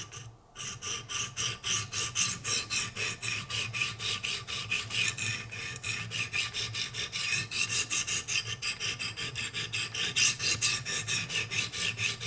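Coarse 100-grit sharpening stones on a Wicked Edge guided sharpener rasping back and forth along an S90V steel knife edge, in a fast, even rhythm of about four to five strokes a second. This is the first, low-grit stage of reprofiling the blade.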